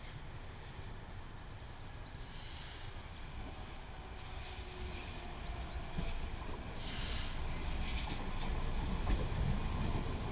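Aoimori Railway electric train approaching and pulling into the station, its rail rumble growing steadily louder over the second half.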